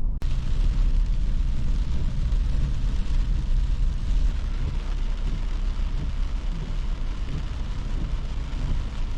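Vehicle on the move: a steady low rumble from the road and engine with a hiss above it.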